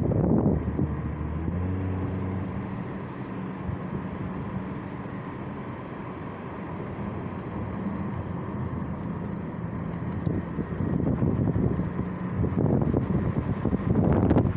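An engine running steadily at a low hum, with wind buffeting the microphone in rough gusts near the start and again in the last few seconds.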